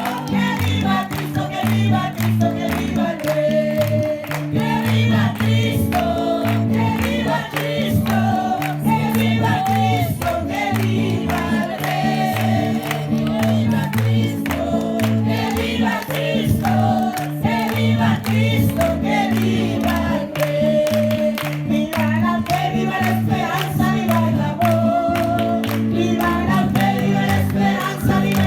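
Group of voices singing a Spanish revival chorus (coro de avivamiento) over live band accompaniment, with a stepping bass line and a steady beat.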